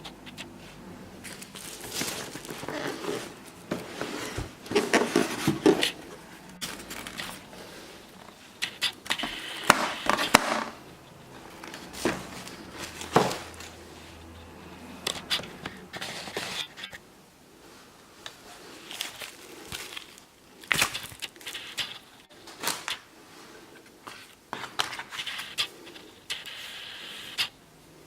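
Handling noise from unboxing: irregular rustling, crinkling and scraping, broken by sharp clicks and knocks.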